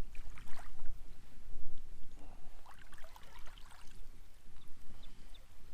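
Water splashing and trickling around a fishing kayak, in short irregular bits, over a steady low wind rumble on the microphone.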